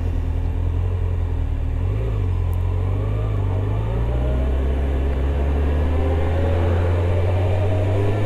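Motorcycle engine running under way, its note dipping briefly about two seconds in and then rising steadily as the bike accelerates.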